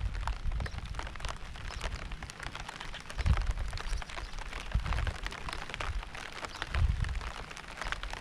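Rain falling steadily, with many individual drops pattering close by. A few low thuds stand out, a second or two apart, in the middle and later part.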